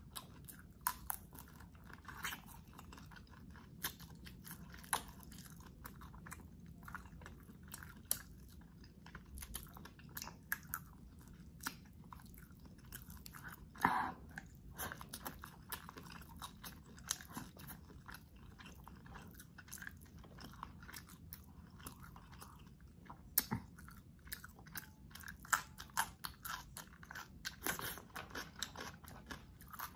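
Close-miked chewing of shrimp and squid: a steady run of irregular wet crunches and clicks, with one louder crunch about halfway through.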